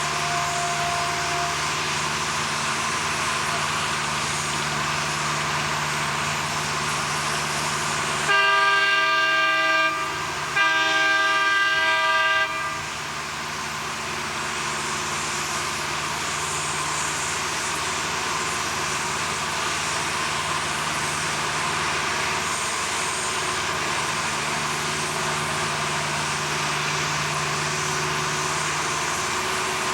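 Two long blasts of a loud multi-tone horn, each about two seconds, with a short gap between them, about eight seconds in. Under it is a steady mechanical din with a low hum.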